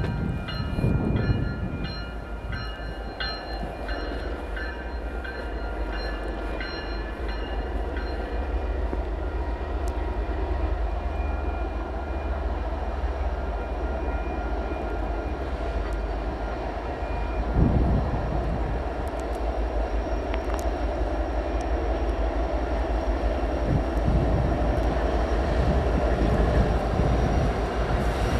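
Diesel freight locomotives pulling a train of tank cars, with a steady deep diesel engine rumble. High squealing tones sound for the first several seconds, and there is a single thump about eighteen seconds in.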